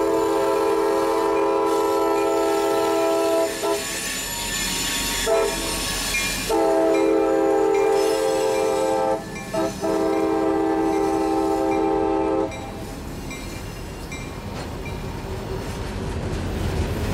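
Freight locomotive air horn sounding a chord in a series of blasts: long ones with brief ones between, stopping about twelve seconds in. After that the train's rumble and rail noise carry on.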